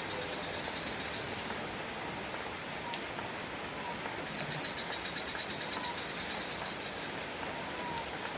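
Steady rain falling. About halfway through, a high-pitched chirping joins in, pulsing quickly several times a second.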